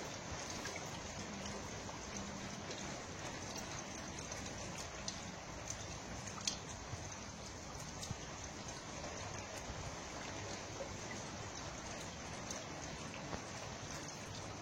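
Steady water noise with scattered sharp drip-like ticks.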